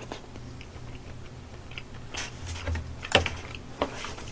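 A person chewing a mouthful of stir-fried gopchang (intestines), with soft wet mouth sounds and a few sharp clicks, the loudest about three seconds in.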